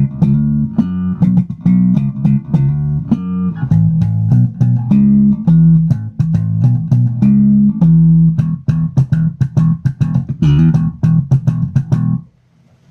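Electric bass guitar played through a Hikari compressor pedal: a quick run of plucked notes held at a fairly even volume, stopping about a second before the end.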